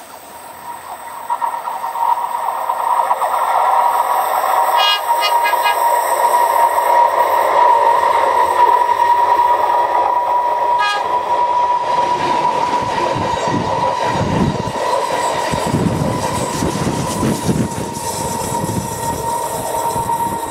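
Diesel multiple unit approaching along the track and passing close by, with a steady whine throughout. Its deep rumble and wheel noise set in about two thirds of the way through, then ease off near the end as it moves away.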